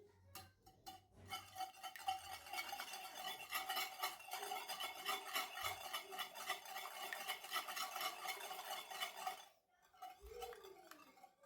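Ingredients being stirred or whisked in a mixing bowl: rapid, even strokes against the bowl that ring a little. They start about a second in and stop sharply with a couple of seconds left, followed by a brief fainter scrape.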